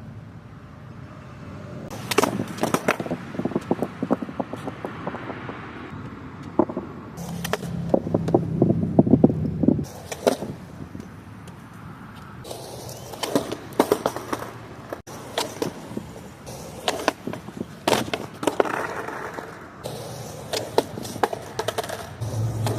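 Skateboard on rough pavement in several bouts: wheels rolling, and the board clacking and clattering as it pops, lands and hits the ground during trick attempts.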